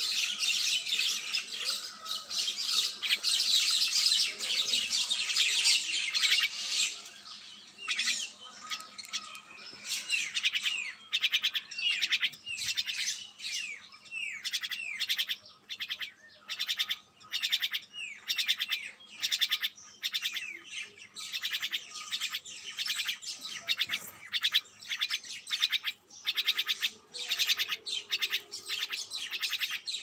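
Birds calling: a dense stretch of chattering for the first several seconds, then a steady series of short, falling chirps about two a second.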